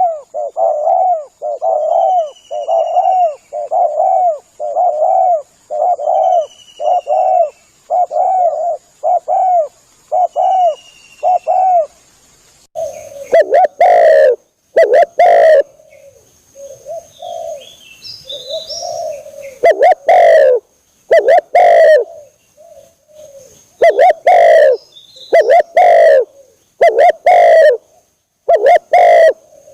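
Spotted dove (tekukur) cooing, a steady run of repeated low coos at first, then from about halfway louder, more irregular phrases that distort. Faint high chirps of another small bird come through now and then.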